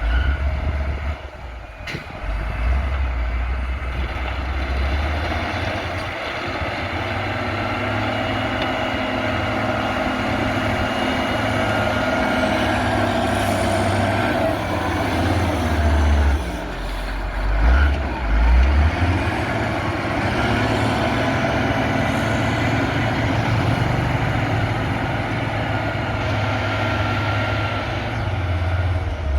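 CAT 140G motor grader's six-cylinder diesel engine running under load as the grader works the road, a steady low rumble whose note shifts and dips for a few seconds around the middle.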